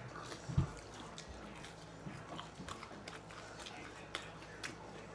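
Close mouth sounds of chewing and biting fried chicken nuggets, with scattered small wet clicks and ticks and a low thump about half a second in.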